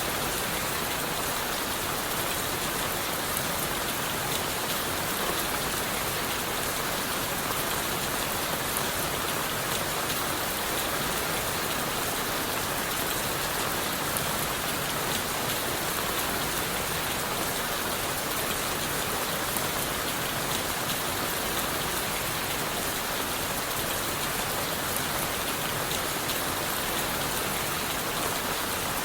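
Steady rain falling on leaves and wood, a dense even hiss with many fine drop patters and no change in intensity.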